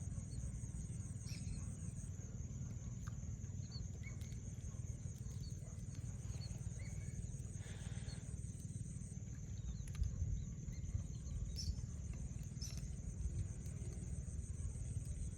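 Open-air lake ambience: a steady low rumble of wind on the microphone, a continuous high insect drone, and scattered faint bird chirps.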